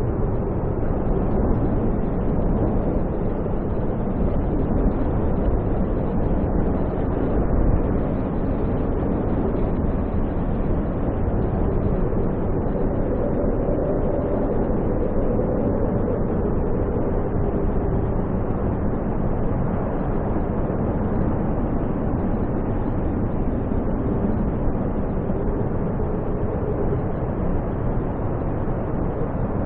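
Snowstorm wind blowing hard and steadily, a roaring wind with a faint whistling moan rising through it in the middle.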